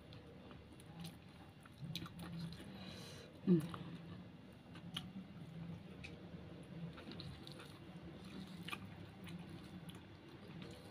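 Close-up chewing and mouth sounds of someone eating rice with fried fish, sambal and raw leaves by hand, with many small wet clicks and smacks. One louder short sound comes about three and a half seconds in.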